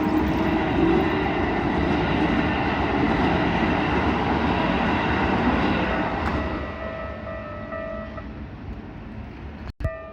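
A train passing over a level crossing, loud for the first six seconds or so and then fading away. As it fades, the crossing's electronic warning bell is heard ringing steadily. The sound cuts out for an instant near the end.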